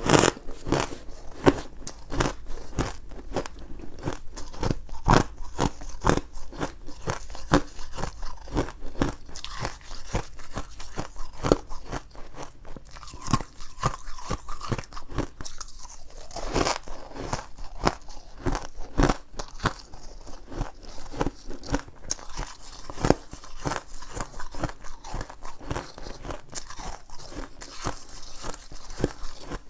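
Ice being bitten and chewed close to the microphone: a dense, irregular run of sharp crunches and cracks.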